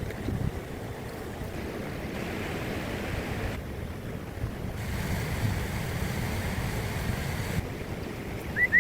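Wind blowing and buffeting the microphone, a steady low rumble with a fainter hiss that cuts in and out abruptly. A short high chirp comes twice near the end.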